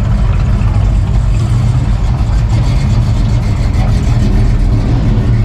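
A car engine idling steadily and loudly, with a low, even rumble and faint voices behind it.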